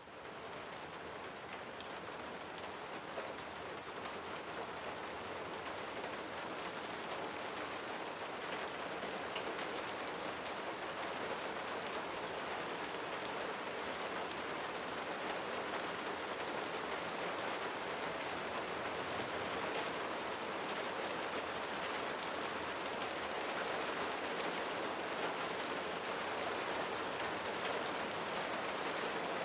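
Steady rain, with many small drops ticking. It starts out of silence and swells gradually over the first half.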